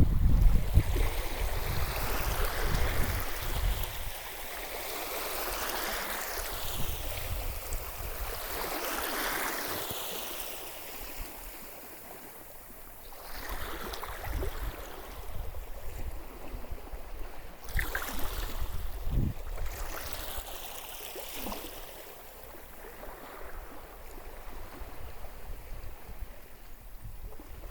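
Sea water washing and swirling in swells every few seconds, with wind rumbling on the microphone at first and a few short splashes or knocks later.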